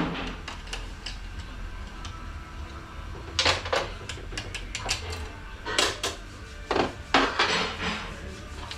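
Metal parts of a Ford AOD automatic transmission clinking and clattering as they are handled and set down during its teardown, over a steady low hum. The clatters come in short groups, about three and a half seconds in and again several times from about six to seven and a half seconds in.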